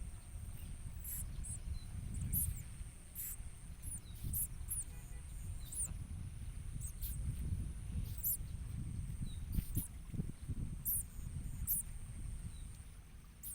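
Bar-winged prinias giving short, very thin high chirps at irregular intervals, about a dozen in all. Under them runs a steady high whine and a low rumble like wind on the microphone.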